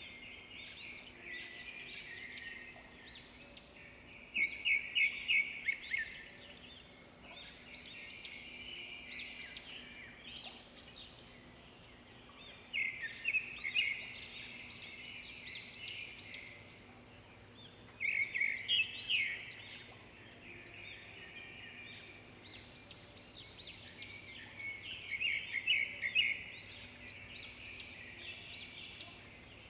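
Several birds singing and chirping together in an unbroken chorus. About every six seconds one bird stands out with a louder, quick run of repeated notes.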